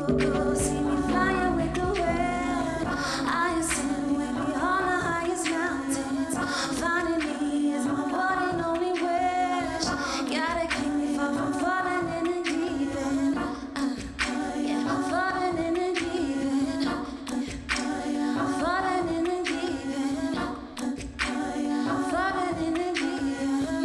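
Unaccompanied voices singing a cappella over a held low note.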